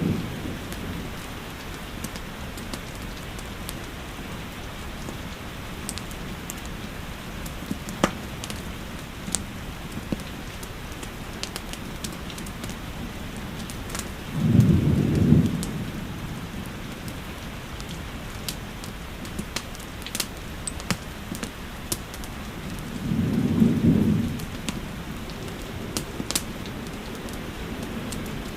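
Steady rain with scattered sharp crackles and pops from a wood fire. Two brief low rumbles rise and fade, about halfway through and again about three-quarters of the way in.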